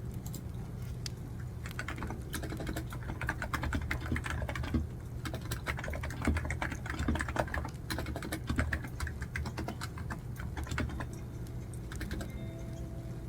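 Typing on a computer keyboard: rapid runs of key clicks that start about a second and a half in and thin out near the end.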